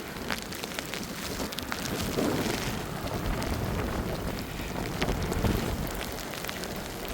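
Blizzard wind buffeting the microphone, a rumbling rush that swells in gusts about two seconds in and again around five seconds, with many small scattered ticks over it.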